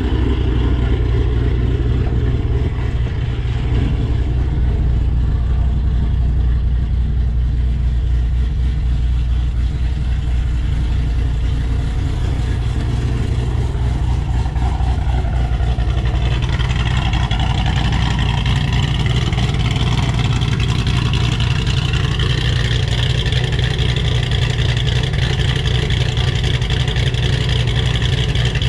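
2007 Ford Shelby GT500's supercharged 5.4-litre V8 idling steadily, a deep even engine note with no revving.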